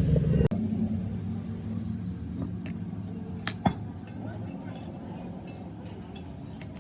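Light metallic clinks and clicks of tools and metal parts being handled, over a low steady hum. A louder humming machine sound cuts off suddenly about half a second in.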